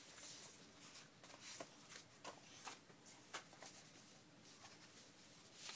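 Sheets of paper being picked up and laid onto stacks, giving faint, scattered rustles and light taps.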